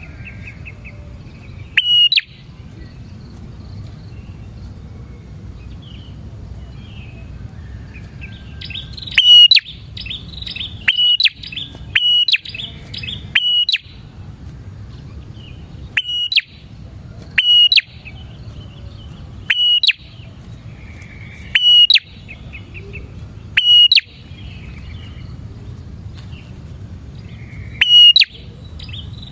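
Bar-winged prinia (prenjak) calling: loud, sharp notes repeated every second or two, coming faster in a quick run about a third of the way in. Softer twittering sits between them over a steady low hum.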